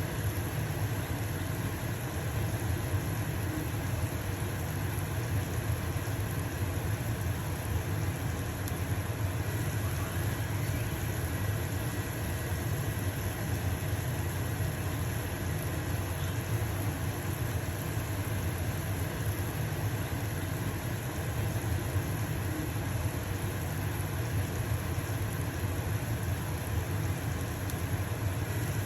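Stove-top range hood fan running with a steady low hum, over the sizzle of a pancake frying in a pan.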